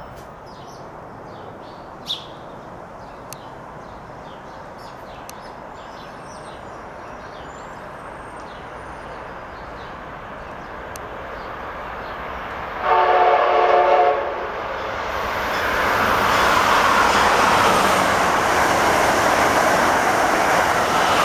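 Amtrak Acela Express high-speed trainset approaching and sounding its horn once, a single blast of about a second roughly 13 seconds in. It then rushes past at speed, the rolling noise building up loud and staying loud near the end.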